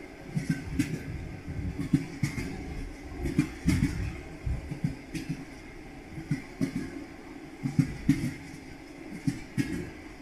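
Railway carriage wheels clattering over rail joints: short knocks in small irregular groups over a low rolling rumble.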